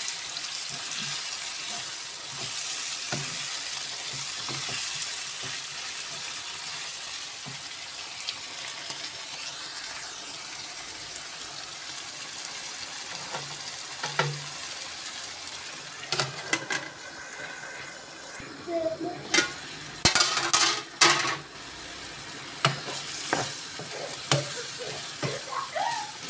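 Diced chicken breast and bell peppers sizzling steadily in oil in a frying pan, stirred with a spatula that scrapes along the pan. A run of louder clacks and scrapes comes in the second half.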